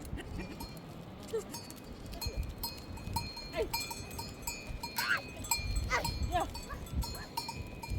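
Bells on a flock of sheep and goats clinking and ringing irregularly, with a few bleats about two-thirds of the way in.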